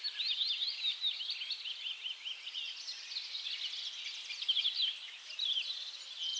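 Small birds twittering, many short high chirps overlapping without a break, over a faint hiss.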